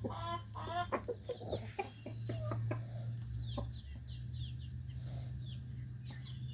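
A flock of chickens clucking, with short, high, falling peeps from young chicks scattered through the later part, over a steady low hum.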